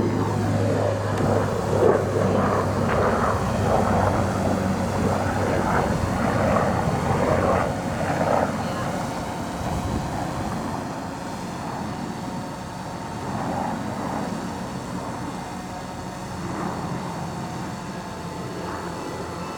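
Radio-controlled model airplane engine running, steady at first, then growing gradually fainter over the second half, with voices in the background.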